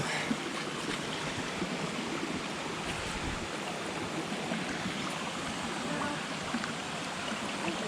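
Jungle river water rushing steadily over rocks, a constant even noise.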